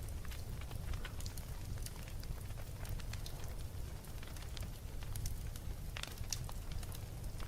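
Wood fire crackling in a fireplace: frequent sharp pops and snaps at irregular moments over a steady low rumble of the flames.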